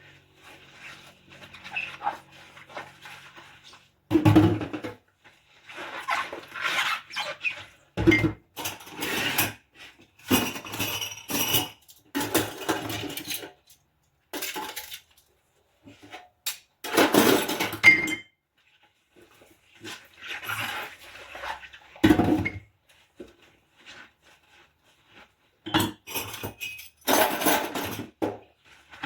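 Dishes and cutlery clinking and knocking as they are washed by hand, in irregular bursts with short pauses and a few dull thumps.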